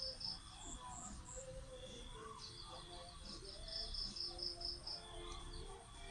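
Runs of rapid, high-pitched bird chirps, several trills of quick repeated notes, over faint background music.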